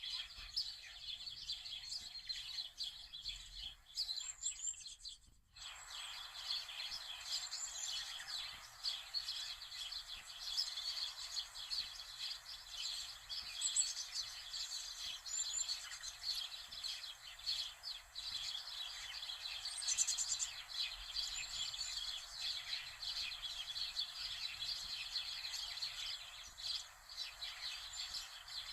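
Many small birds chirping and twittering over a steady background hiss, with a brief drop-out about five seconds in.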